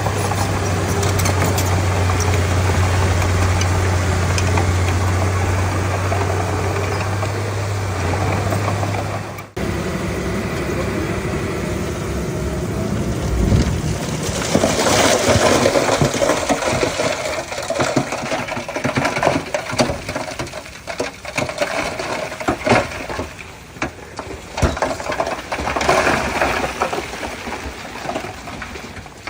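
Komatsu D31P bulldozer's diesel engine running steadily with a deep hum. About nine and a half seconds in, the sound breaks off and gives way to busier working noise: the engine under irregular clanks and rattles.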